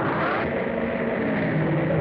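A vehicle running steadily, a continuous rumbling noise, with a brief rising tone in the first half-second.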